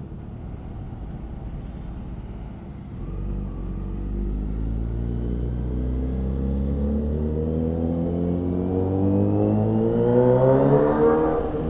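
Motorcycle engine accelerating: after a steady low running sound, the pitch climbs smoothly for several seconds as it revs up through a gear, then drops sharply near the end as it shifts up.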